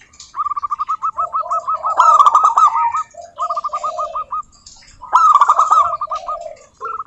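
Zebra doves (perkutut) singing: rapid trains of short staccato cooing notes, repeated in several bouts of a second or so with brief gaps, higher and lower series overlapping as more than one bird calls at once.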